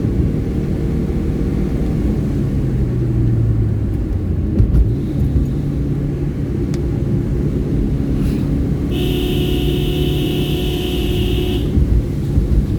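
Hyundai i10 on the move: steady engine and road rumble. About nine seconds in, a steady high-pitched tone sounds for nearly three seconds and cuts off.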